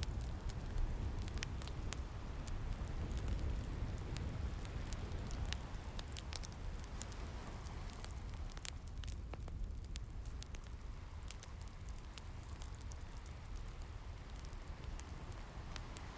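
Wood fire crackling, with frequent sharp irregular pops over a steady low rumble of ocean waves.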